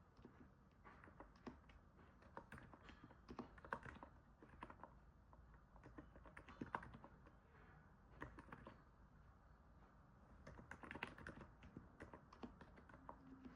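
Typing on a NIZ 68 Pro capacitive keyboard: soft, irregular keystrokes that come in short runs with brief pauses between them.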